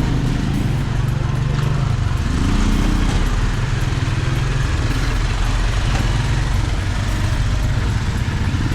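A vehicle's engine running with a steady low hum under an even hiss of rain and tyres on a wet, flooded road. A brief pitched sound rises above it about two and a half seconds in.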